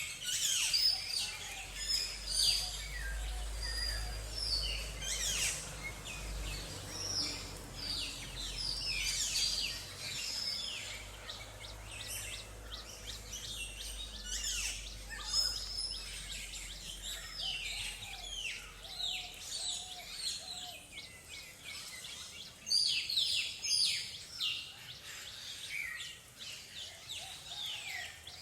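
Small songbirds chirping, many short falling chirps overlapping one another, over a low hum of background noise that fades out about two-thirds of the way through.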